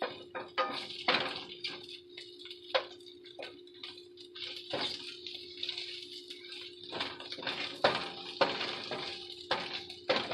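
A utensil knocking and scraping against a frying pan in irregular clicks while vegan sausage strips are stirred and sautéed in butter, with a steady hum underneath.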